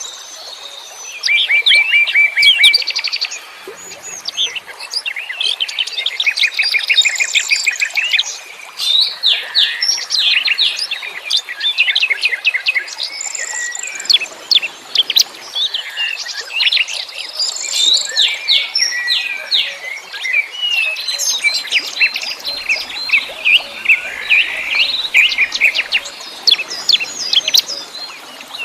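Several wild songbirds singing and chirping together in a dense, continuous chorus of quick trills, rapid chip series and short whistles.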